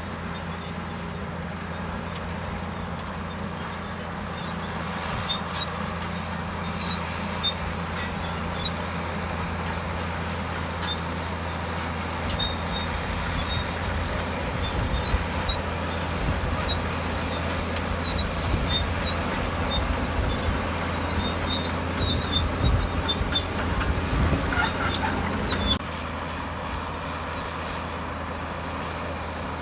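Komatsu D65EX bulldozer's diesel engine running steadily. From a little before halfway it works harder and louder, with clanking and high squeaks from the steel tracks, then drops back to a steady hum a few seconds before the end.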